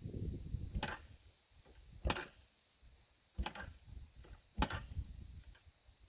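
Yamaha TT-R125LE dirt bike being kick-started: about four sharp clacks of the kick-start lever, roughly a second apart, each with a brief low churn as the single-cylinder engine turns over. The engine does not fire.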